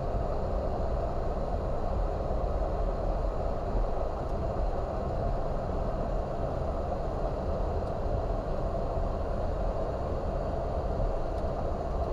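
Steady rushing cockpit noise of a Boeing 737 MAX 8 taxiing on one engine, with engine number 2 shut down and the APU running.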